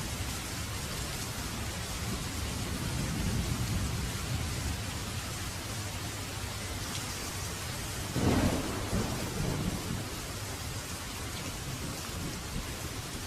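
Heavy rain falling steadily with thunder: a low rumble swells about three seconds in, and a sharper, louder clap about eight seconds in rolls off over the next couple of seconds.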